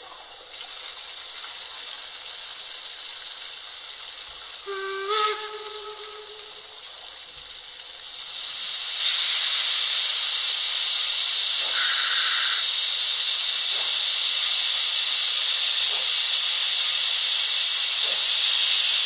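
ESU Loksound 5 sound decoder in a Märklin H0 class 45 steam locomotive model playing steam-engine sounds through the model's loudspeaker: a steady hiss with one short whistle blast about five seconds in, then from about eight seconds a louder steady steam hiss.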